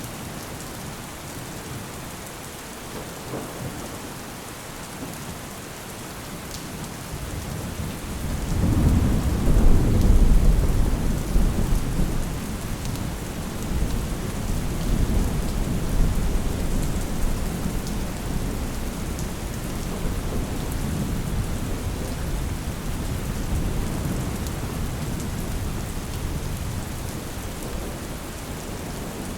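Steady rain falling, with a long roll of thunder that swells in about eight seconds in, peaks a couple of seconds later, then rumbles on more softly and slowly dies away.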